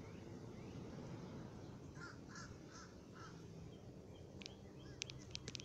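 A bird gives four short calls in a row, about a third of a second apart, about two seconds in. Near the end, quick sharp high chirps or ticks start.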